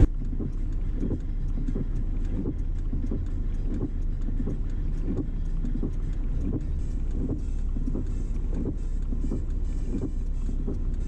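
Car cabin road noise while driving: a steady low rumble of engine and tyres, with faint small ticks scattered through it.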